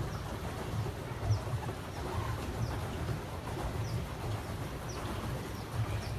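A small bird chirping again and again, short high chirps about once a second, over a low, uneven rumble.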